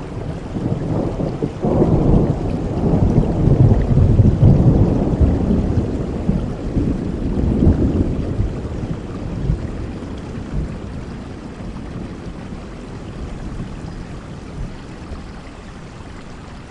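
Rolling thunder over steady heavy rain. The deep rumble builds about two seconds in, peaks a couple of seconds later, swells once more, then dies away and leaves the rain alone.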